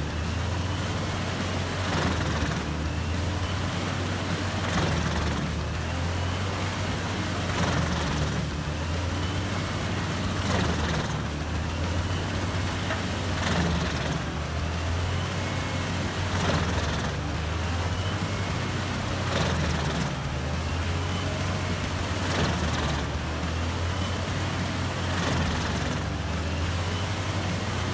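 Heavy wood-crushing machinery running: a steady low engine drone under broad grinding noise, with a faint pulse about every three seconds.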